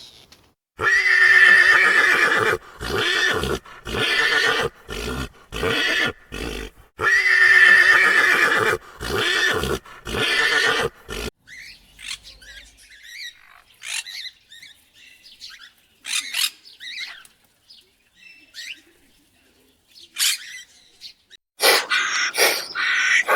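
An equine calling: two long, loud pitched calls about six seconds apart, each trailing off into a run of short repeated pulses. Then faint scattered chirps, and another loud burst of pulsed calls near the end.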